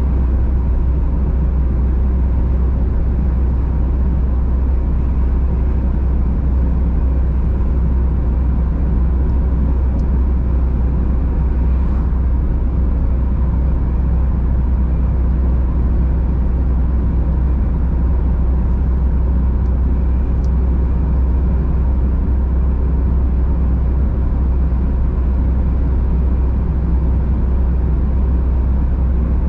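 Steady rumble of a car driving at constant speed, engine and tyre-on-road noise heard from inside the cabin, deep and even without changes in pace.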